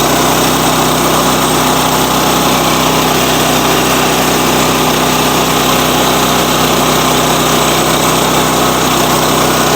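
Sawmill's small engine running steadily and loudly, with no change in speed.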